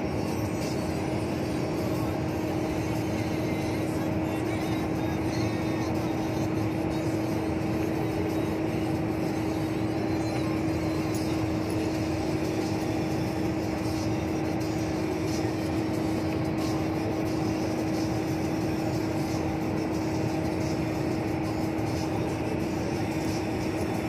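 Steady road and engine noise of a vehicle cruising at constant speed on a highway, with a constant droning hum that does not change.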